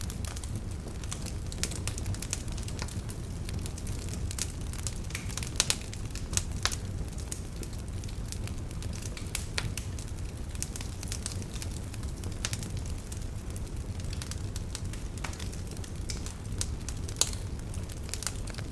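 Wood fire of burning logs in a fireplace crackling, with a steady low rumble under many irregular sharp pops and snaps, a few louder ones about a third of the way in and near the end.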